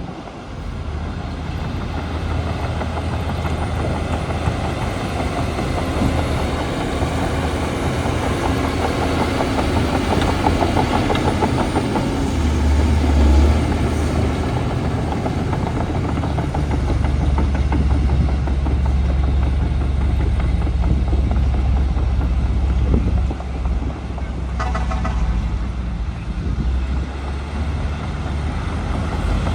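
Heavy diesel engine of earthmoving machinery, a bulldozer working soil alongside dump trucks, running steadily and growing louder and deeper about twelve seconds in. Near the end, a short high-pitched tone sounds for about a second.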